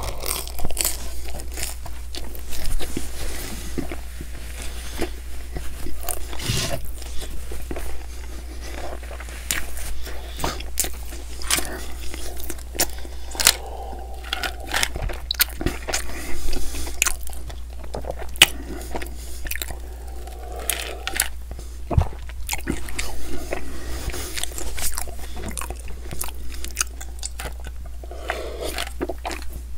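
Close-miked eating: biting and chewing pizza crust, with crunching and many short wet mouth clicks, then drinking from a plastic cup. A steady low hum sits underneath.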